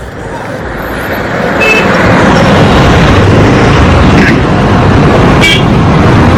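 Road and traffic noise heard from a moving motorcycle on a highway: a dense rush of noise that builds over the first two seconds and then stays loud. Two brief high tones cut through it, about a second and a half in and again near the end.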